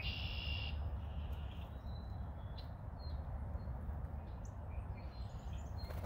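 Wild bird calling: one harsh, high call lasting under a second right at the start, then a few faint short chirps, over a steady low background rumble.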